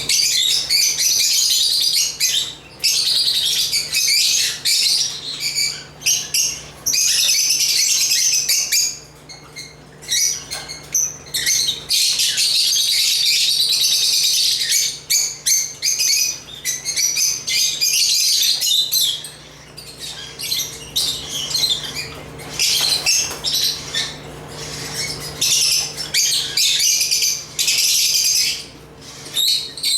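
A flock of African lovebirds (Agapornis) chattering: rapid high chirps and squawks in long busy bursts, broken by short lulls about ten seconds in, near twenty seconds and near the end.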